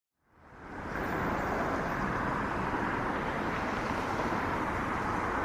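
Steady low rumble of vehicle and street noise, coming up about half a second in after a brief silence.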